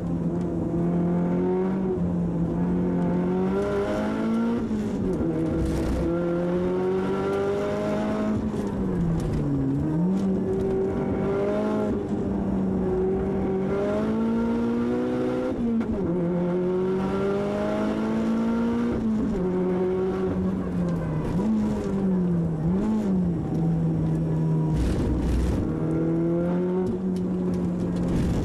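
Tuned Audi TT Quattro's GT30R-turbocharged engine heard from inside the cabin under hard track driving, its pitch climbing and then dropping sharply, over and over, as the car accelerates and slows for corners.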